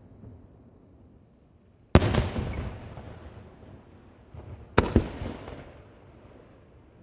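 Aerial firework shells bursting: a sharp bang about two seconds in and a quick double bang about three seconds later. Each is followed by a rumble that fades over a second or two.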